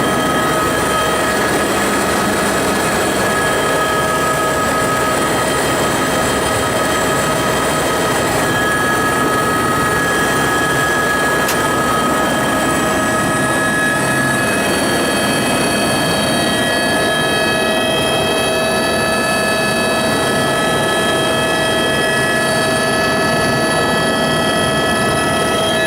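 Helicopter in flight: loud, steady rotor and engine noise carrying several steady high whining tones, which shift slightly in pitch about halfway through. A single faint click about a third of the way in.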